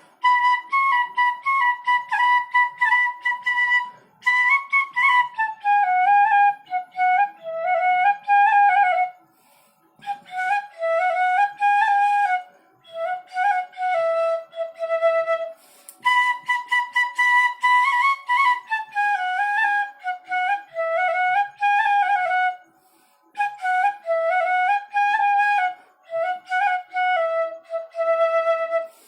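Bansuri (bamboo flute) playing the melody of a Hindi film song on its own, in phrases of moving notes broken by three short pauses for breath.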